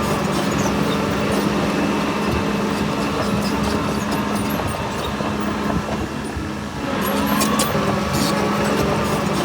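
Heavy earthmoving machine's diesel engine running steadily under work, with scattered metallic clanks. It eases off briefly past the middle, then picks up again with a rising whine.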